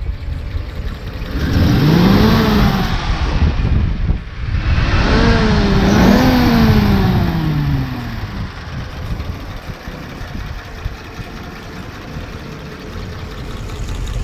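1934 Ford's 221 cubic inch flathead V8 revved three times, the last two run together and falling away slowly, then settling to a steady idle for the second half.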